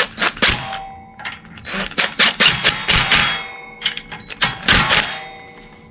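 Metal hand tools clinking and rattling against the mower engine as the ignition coil's screws are tightened down, with short ringing metallic clinks and two longer runs of rapid clicking.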